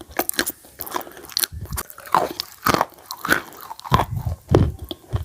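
Chalk being bitten and chewed: a string of crisp, irregular crunches, roughly two a second.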